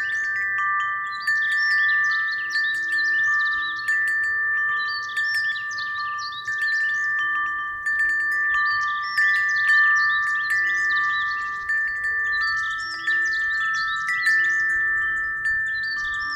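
Wind chimes ringing in the wind: several long, overlapping ringing tones, with clusters of higher tinkling strikes every couple of seconds as the breeze swings them.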